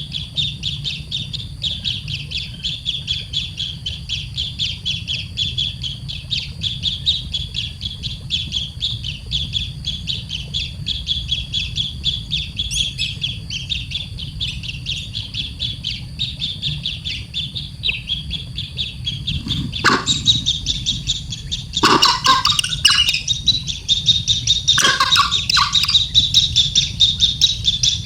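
Baby bird chirping rapidly and without pause in short high calls, about three a second, typical of a nestling begging for food. From about two-thirds of the way in, the calls turn louder and harsher, like squawks.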